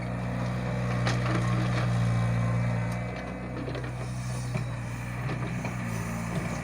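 Mahindra 555 DI tractor's diesel engine running steadily, louder for the first few seconds and then easing off, with scattered knocks and cracking sounds over it.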